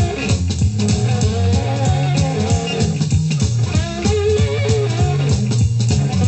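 Electric slide-guitar blues instrumental: the slide guitar plays gliding, bending notes over a repeating low bass line and drums.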